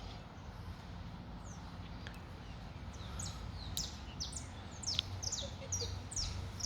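Birds chirping outdoors: many short, quick high-pitched notes, each falling in pitch, coming more thickly in the second half, over a faint low background rumble.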